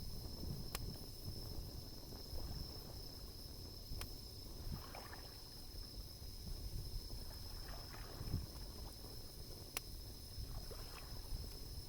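Bonfire burning: a low steady rush of the flames with sharp pops of burning wood three times (near the start, about four seconds in, and near the end) and a few softer crackles between. A thin steady high tone sits behind it.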